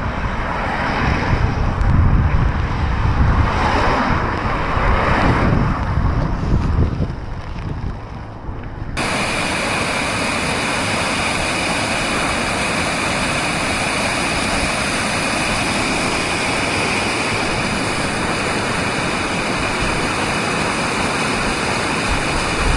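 Strong gusting wind buffeting the microphone, rising and falling in heavy blasts. About nine seconds in it cuts abruptly to a steady, even rushing noise with no gusts.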